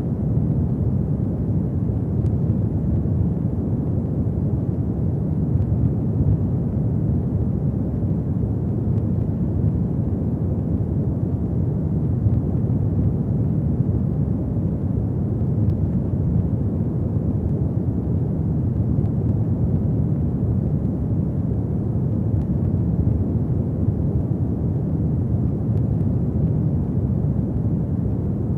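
Fireplace fire burning with a steady low rushing noise and a few faint crackles.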